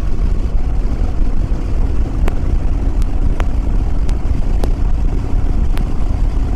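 Yamaha WR250R single-cylinder four-stroke engine running at steady highway cruising speed, under a heavy low rumble of wind buffeting the microphone. A few sharp ticks come through from about two seconds in.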